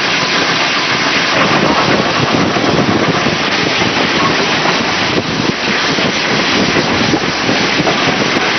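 Wind buffeting the microphone on the footplate of a moving steam tank locomotive, over the steady running noise of the train.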